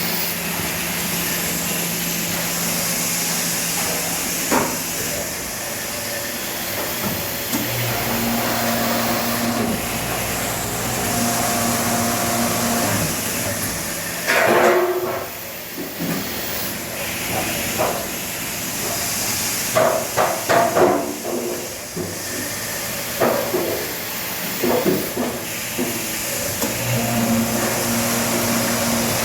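Dairy barn milking equipment running with a steady hiss. A motor hum starts about eight seconds in, stops around thirteen seconds and returns near the end, and there are several short bursts of clattering in the middle.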